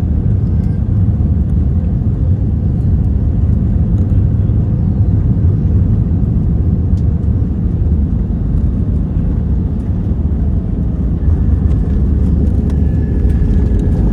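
Steady low rumble of cabin noise aboard an Airbus A320 on its landing at JFK, from the engines and the aircraft moving. A faint high whine comes in near the end.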